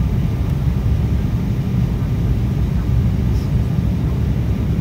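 Steady low rumble of an Embraer E190 jet airliner's engines and airflow, heard inside the passenger cabin.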